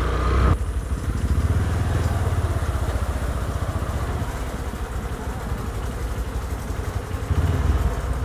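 Honda New Megapro single-cylinder motorcycle engine running at low speed, heard from the rider's seat, a steady low rumble. The sound changes abruptly about half a second in, and the engine swells briefly near the end.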